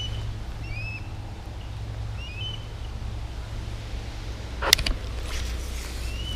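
Osprey calling: short, high whistled chirps coming a few at a time, over a steady low wind rumble. There is one sharp click a little past halfway.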